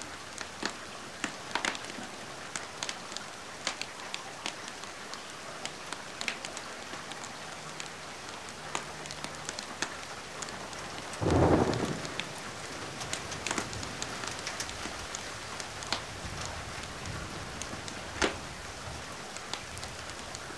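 Steady rain hiss mixed with a wood fire crackling, sharp pops scattered through it. About eleven seconds in, a short, louder burst lasting under a second stands out above the rest.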